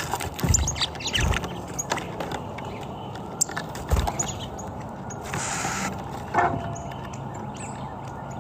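Birds chirping in short scattered calls over a steady background noise, with a few dull low thumps and a brief rushing hiss about five seconds in.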